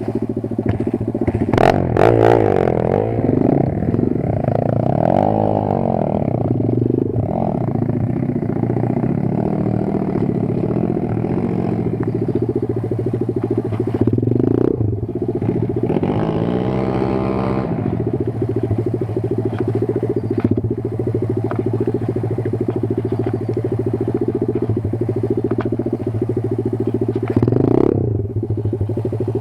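Kayo 140 pit bike's single-cylinder four-stroke engine running under way, its revs rising and falling a few times, with sharp knocks about two seconds in and again midway and near the end.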